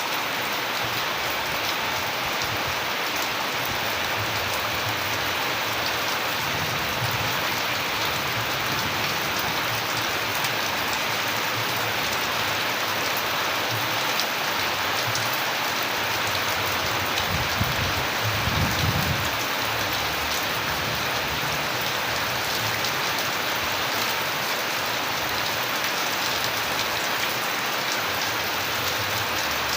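Steady rain falling, a dense even hiss with many sharper drop strikes. A brief low rumble comes a little past halfway.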